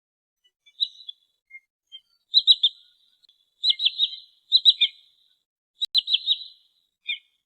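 Trinil sawah sandpiper calling: four bursts of three quick, high, sharp notes, with single notes near the start and the end.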